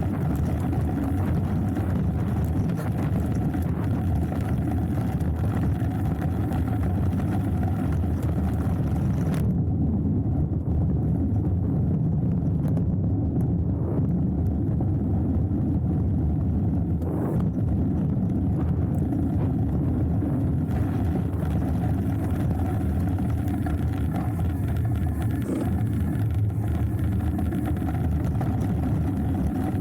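Riding noise of a hardtail mountain bike on a downhill trail: a steady rumble of wind on the microphone and tyres on the dirt. The higher hiss thins out for several seconds in the middle.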